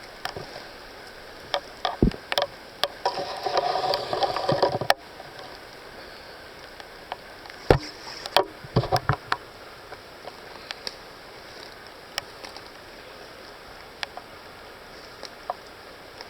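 Footsteps and rustling through wet forest undergrowth: scattered snaps and crunches, with a denser stretch of rustling about three to five seconds in that stops abruptly, over a steady background hiss.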